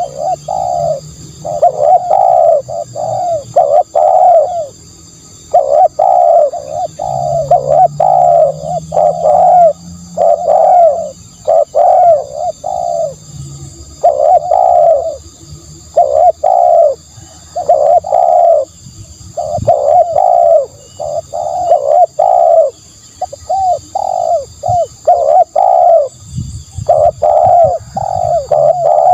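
Spotted dove cooing over and over, in short phrases of three or four low coos separated by brief pauses.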